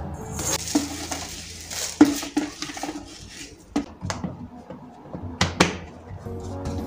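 Kitchen storage containers and dishes being handled and set down: several separate light knocks and clinks, the sharpest about two seconds in and another pair near the end, over soft background music.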